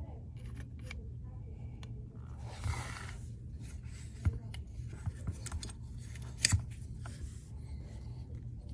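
Sharp plastic clicks and a brief scrape from handling an opened electronic throttle body and its broken internal gear, over a steady low hum. The scrape comes about two and a half seconds in, and the loudest clicks come about four and six and a half seconds in.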